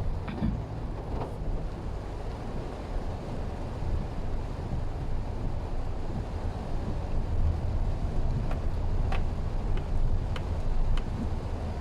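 Mitsubishi Xpander driving: steady low road and engine rumble with tyre noise, a few faint short clicks near the end.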